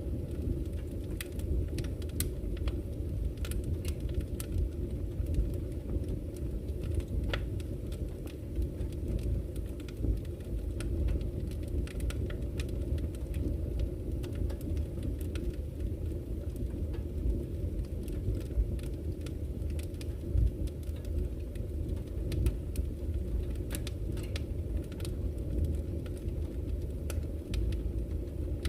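Campfire crackling, with irregular sharp pops and snaps of burning wood over a steady low rush of flowing river water.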